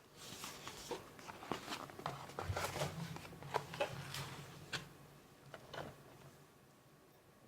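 Food packaging being handled before eating: irregular crinkly rustles and small clicks, busiest in the middle and thinning out near the end, with a faint low hum for a couple of seconds in the middle.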